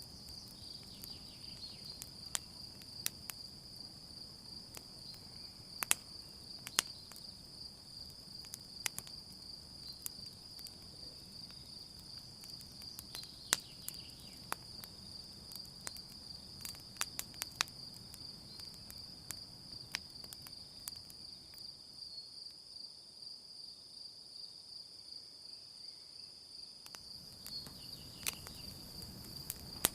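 Campfire crackling with scattered sharp pops, over a steady high chirring of crickets.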